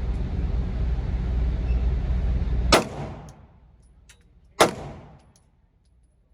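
Two 9mm shots from a Glock 19 pistol, about two seconds apart, each a sharp crack with a short echoing tail. Before the first shot a steady low rumble is heard, and it cuts off at the shot.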